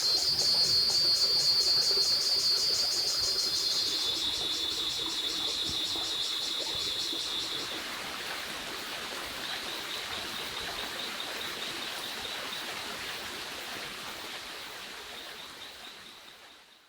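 Insects calling in the forest: a high, rapidly pulsed buzz, loudest in the first few seconds and then fainter, over a steady background hiss. It fades out near the end.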